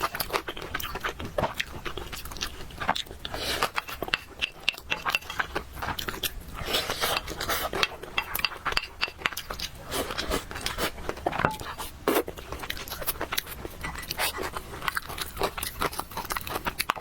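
Close-miked eating of noodles: continuous chewing and slurping with frequent small crunches and wet clicks, irregular and without pause.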